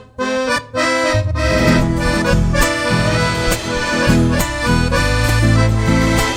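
Live Argentine folk band playing an instrumental intro: accordion carrying the melody over bass and percussion, with the bass and full band coming in about a second in after a brief opening phrase.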